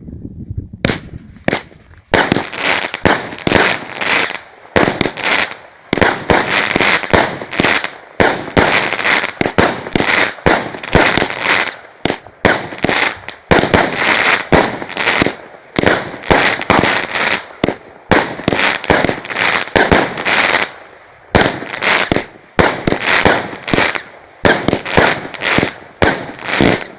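A 36-shot "Vyuga" consumer fireworks cake firing: sharp bangs in quick succession, in volleys of several shots with short pauses between, starting about a second in.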